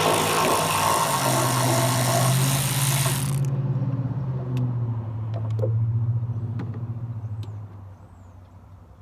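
A motor vehicle's engine running with a steady low hum that rises slightly in pitch about a second in, then fades away near the end. A loud hiss runs along with it and cuts off abruptly about three and a half seconds in.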